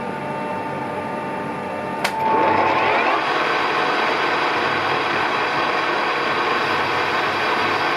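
A Colchester lathe running, with a steady hum. About two seconds in there is a sharp click, and then a louder, steady cutting noise as the tool bites into a 303 stainless steel workpiece held against the spindle backstop.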